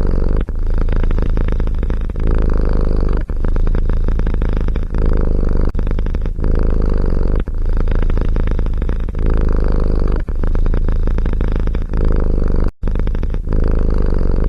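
Domestic cat purring loudly close to the microphone, in a steady rhythm of breath cycles each about a second long; the sound drops out sharply for an instant near the end.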